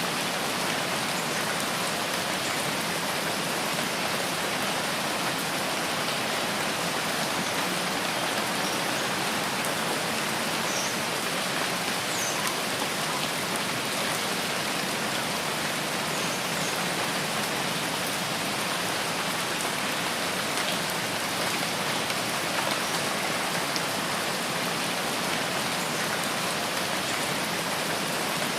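Steady rain in a rain forest, an even, unbroken hiss of drops falling on leaves and ground.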